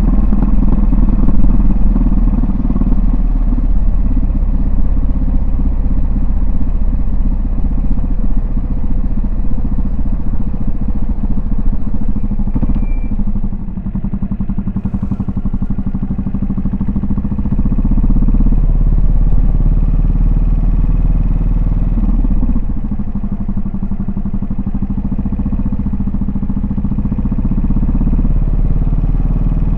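Yamaha SR400's air-cooled single-cylinder four-stroke engine running under way, its exhaust note rising and falling with the throttle. It eases off about halfway through and pulls again a few seconds later.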